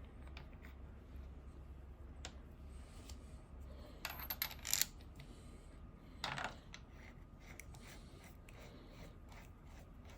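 Small steel machine parts clinking and clattering as they are handled, with a short burst of sharp metallic clinks about four seconds in and another about two seconds later, over a faint steady hum.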